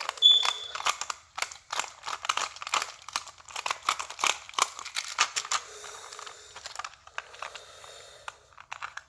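Close-up handling of small plastic parts and packaging: crinkling with many irregular sharp clicks, and a brief squeak near the start, while a toy's battery compartment is being readied for AA batteries.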